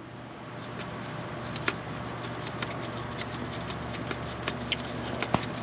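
Faint clicks and scraping of the plastic primer pump cap on a MaxxForce 13 fuel filter housing being twisted and unscrewed by hand, scattered irregularly over a steady low hum.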